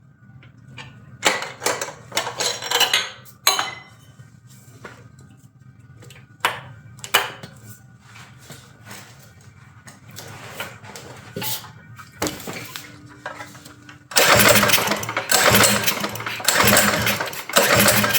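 Minibike's small single-cylinder engine being pull-started with the recoil starter: a few pulls early on, then a longer, louder run of cranking near the end, and the engine never catches. Short knocks and clicks of handling come between the pulls.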